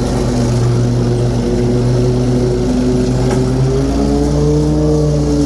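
25-horsepower Kohler Command Pro V-twin engine on an Exmark Lazer Z HP zero-turn mower running at high throttle with its 48-inch deck's blades engaged. The engine's pitch sags a little, then rises again about four seconds in.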